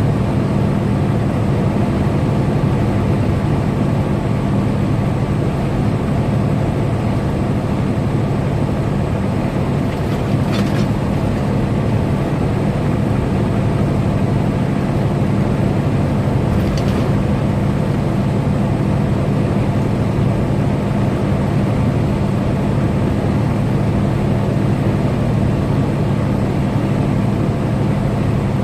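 Semi truck cruising on the highway: a steady drone of engine and road noise with a low, even hum.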